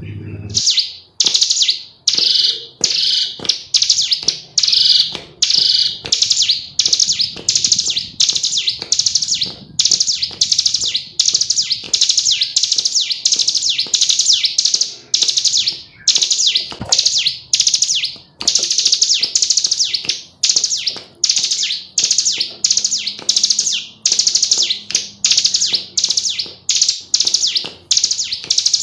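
Female ciblek gunung (hill prinia) calling: a long unbroken string of short, rapid buzzy trills, about two a second.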